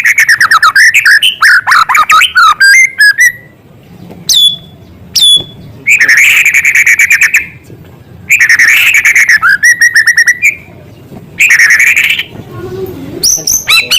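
White-rumped shama (murai batu) singing loudly in phrases of rapid trills and repeated sharp notes broken by short pauses. Its song is filled with mimicked calls of small birds.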